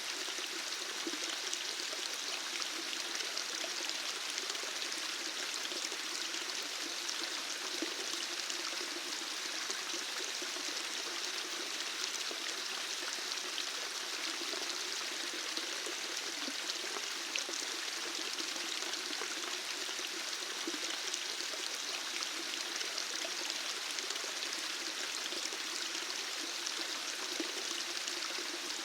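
Running water flowing steadily: an even rushing noise with fine splashy ticks all through it.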